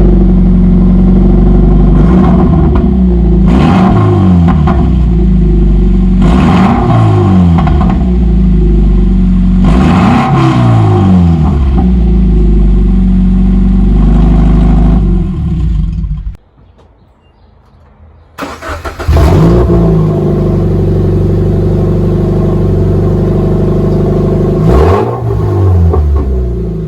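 Toyota GT86's 2.0-litre flat-four engine running through its aftermarket exhaust, loud, with the revs blipped up and back down three times. About 16 seconds in the sound drops out for roughly two seconds. The engine then comes back and is revved once more near the end.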